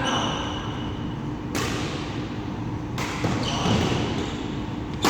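Badminton rally: rackets striking the shuttlecock three times, about a second and a half apart, each hit ringing in a large hall. Shoes squeak on the court floor in the second half.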